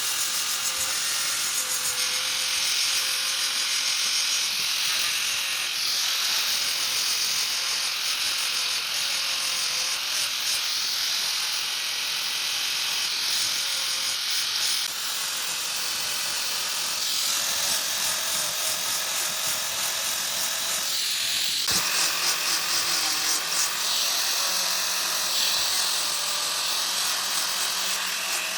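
A handheld electric power tool's motor running steadily with a high-pitched whir and hiss, its sound changing abruptly several times.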